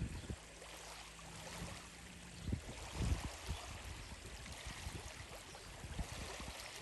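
Splashing and lapping water from gulls bathing, a steady wash of water noise with a few low thumps about two and a half and three seconds in.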